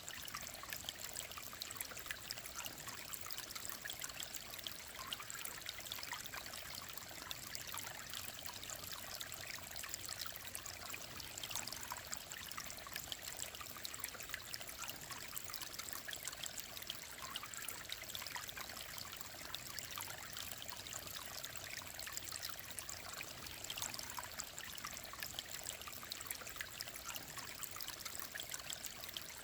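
Clear mountain stream running steadily: continuous bright trickling and splashing water, with little low rumble.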